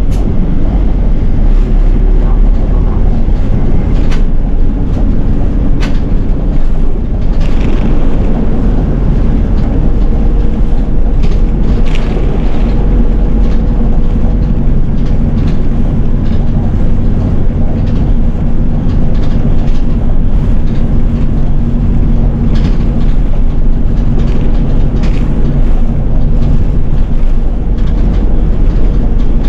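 A city bus running along the road, heard from the front of its cabin: a steady engine drone and road noise, with a thin whine that sets in about a third of the way through and holds its pitch. Now and then there is a short rattle or click.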